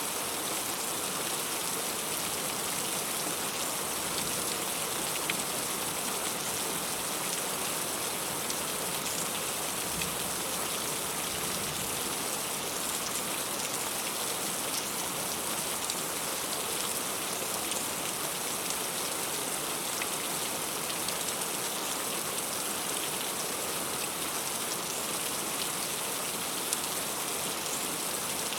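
Heavy rain falling steadily: a dense, even hiss scattered with sharp ticks of individual drops.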